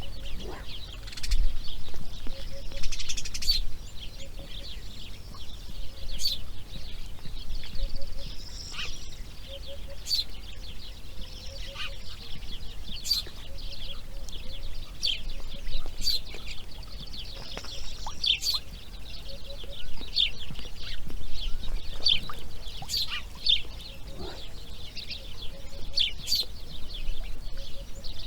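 Birds calling: a busy stream of short, high chirps and trills, with a faint low hooting note repeated in short groups about once a second.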